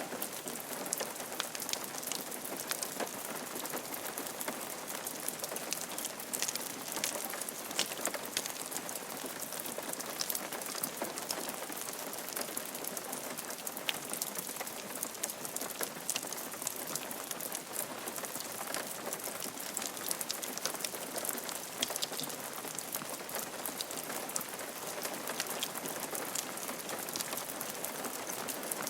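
Steady rain falling on a roof: a constant hiss with many separate drops ticking through it.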